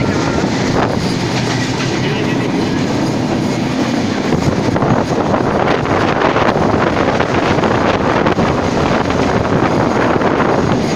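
Passenger train running along the track, heard at an open coach door: a loud, steady rush of wheel and rail noise with constant clattering from the wheels.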